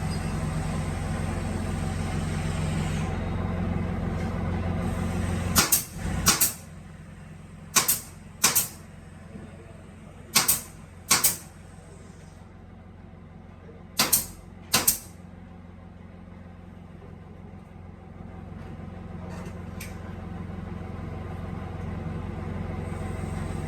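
A woodworking drilling machine's motor hums steadily, then drops away about five seconds in. Four pairs of short, sharp, loud sounds follow, the two in each pair about half a second apart, and near the end the motor hum builds up again.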